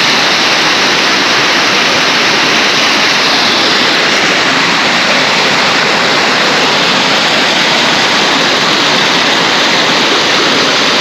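Waterfall pouring, a loud, steady rush of falling water close by.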